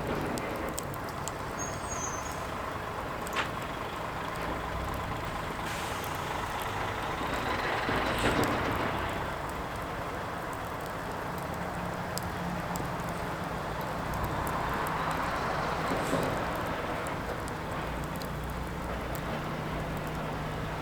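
Firewood burning, with sharp pops and crackles over a steady rushing hiss that swells louder twice.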